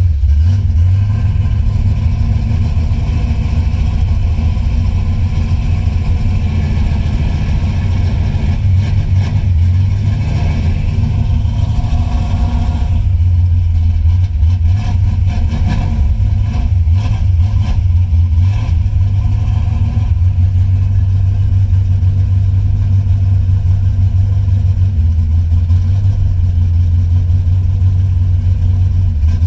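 1976 Chevrolet Camaro's engine running steadily at idle just after a cold start. A higher-pitched layer of the sound falls away about thirteen seconds in.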